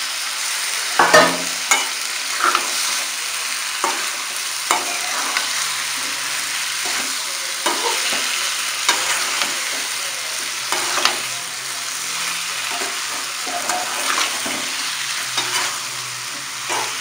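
Brinjal (eggplant) pieces frying in oil with a steady sizzle, while a spatula stirs and scrapes against the pan in irregular strokes, the loudest about a second in.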